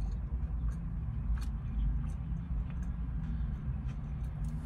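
Close-up chewing of a turkey sub, with scattered wet mouth clicks and smacks, over a steady low rumble from the car she sits in.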